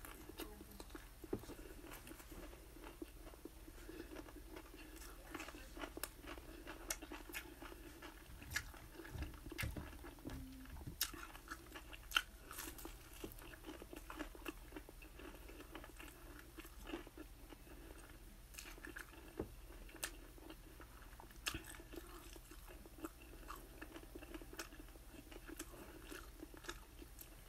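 A person chewing and biting into chicken wings: faint chewing with scattered, irregular sharp crunches and mouth clicks.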